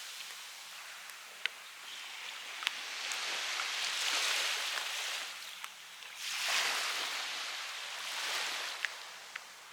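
Waves washing on the shore, the surf swelling and falling back every couple of seconds, with a few sharp clicks.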